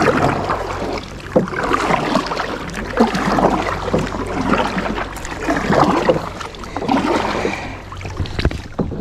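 Kayak paddle dipping and splashing in lake water, a stroke about every second and a half, with water lapping against the hull.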